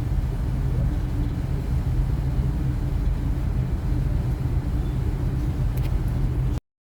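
Steady low engine rumble with a constant droning hum, cutting off abruptly near the end.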